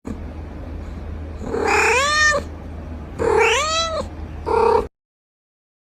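Domestic cat meowing three times: two long meows that rise and fall in pitch, then a shorter one, over a low steady hum. The cat is asking for a door to be opened.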